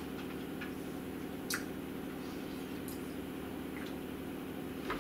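Steady low hum with a few faint mouth clicks from a man chewing and tasting, the clearest about a second and a half in.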